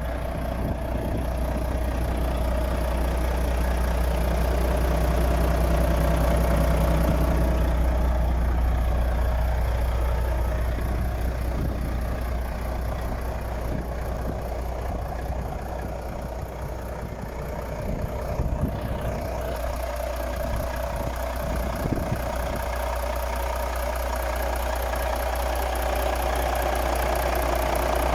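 Volvo FH 13.420 truck's 13-litre straight-six diesel engine idling steadily, with a couple of short knocks past the middle.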